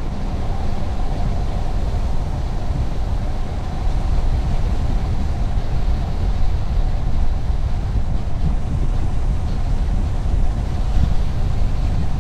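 Steady road and wind noise of a car driving along at speed, a continuous low rumble without breaks.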